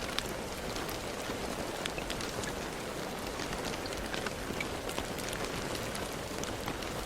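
Steady rain falling, a constant hiss with many individual drops striking a surface.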